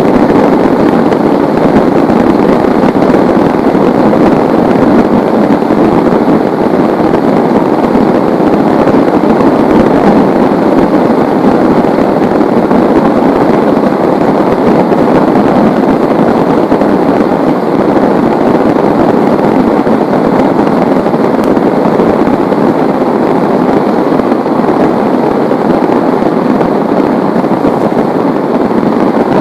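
Heavy rain falling in a dense, steady downpour, loud and unbroken throughout.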